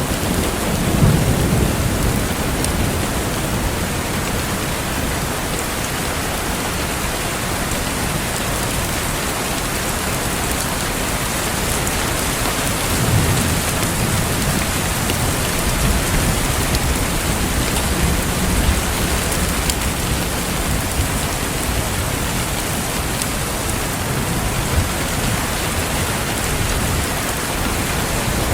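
Steady rain, with low rumbles of thunder about a second in and again around 13 seconds, and a fireplace crackling under it.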